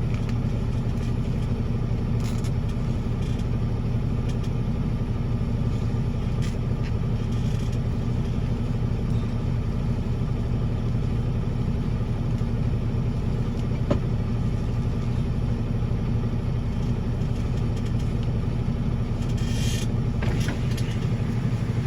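Semi truck's diesel engine running steadily: a low, even hum, with a single short click about fourteen seconds in.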